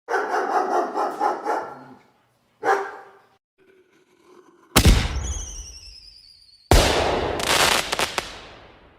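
A string of short sound clips. First a dog barks rapidly for about two seconds, with one more bark a little later. Then come two loud firework bangs about two seconds apart: the first is followed by falling whistles, and the second fades out slowly with crackling.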